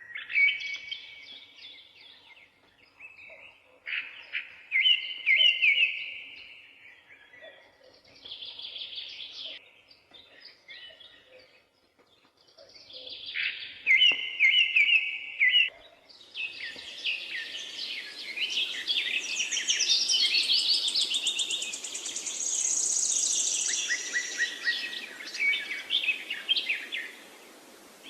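Songbirds singing, in short phrases of quickly repeated chirping notes. About halfway through, a steady hiss sets in and the song grows denser and louder.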